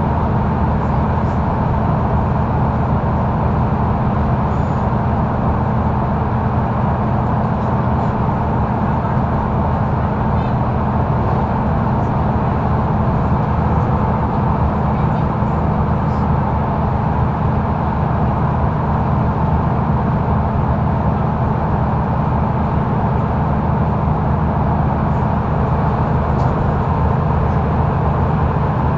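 Mercedes-Benz O530 Citaro Facelift articulated intercity bus heard from on board, its engine and drivetrain droning steadily at an even speed, with road and tyre noise.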